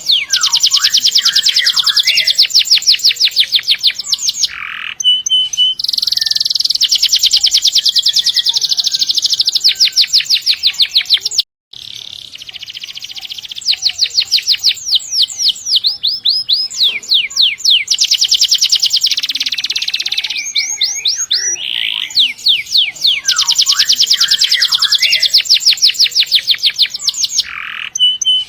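Domestic canary singing long rolling trills: very fast repeated high notes held for several seconds at a stretch, broken by short chirps and whistles. The song cuts out for a moment about halfway through.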